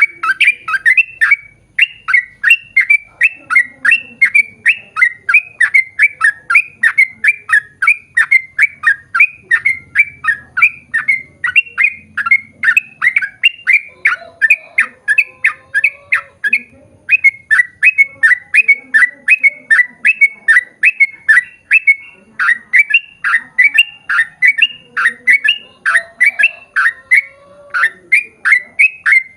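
Yellow-vented bulbul (trucukan) singing a long, rapid run of short notes that each drop in pitch, about three a second, broken by a few brief pauses.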